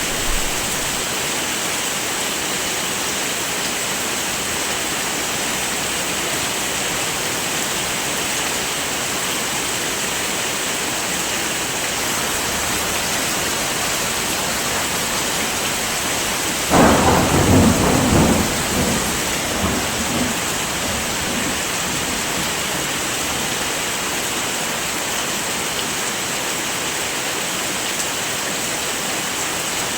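Heavy rain falling steadily. Just past halfway a sudden roll of thunder breaks in, loudest in the low range, and rumbles away over a few seconds.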